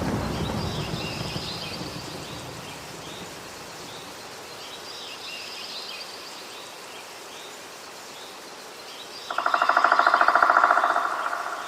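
A low thunder rumble fading away over the first few seconds, with birds chirping throughout. About nine seconds in, a loud, fast-pulsing buzz of unknown source rises suddenly and lasts about two seconds before dying away.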